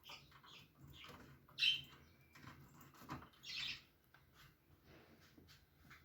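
Pet parrot giving a string of short calls, the loudest about a second and a half in and a longer one past the middle.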